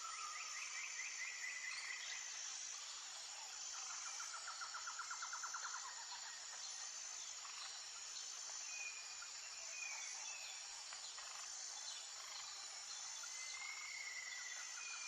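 Nature ambience of songbirds and insects. Birds give rapid trills near the start and again around the middle, with short whistled notes in between, over a steady high insect drone.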